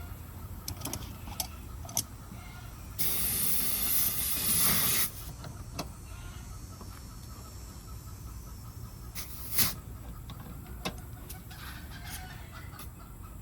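A short hiss of refrigerant gas escaping at a mini-split line set's service valve, lasting about two seconds, among scattered light clicks and taps of tools and fittings.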